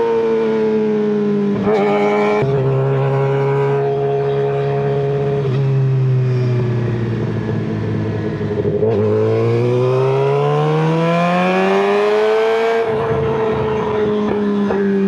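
2023 Suzuki GSX-R600 inline-four engine through an M4 slip-on exhaust. Its pitch falls slowly for several seconds, then rises steadily for about four seconds. It drops abruptly near the end, as at a gear change, and then holds steady.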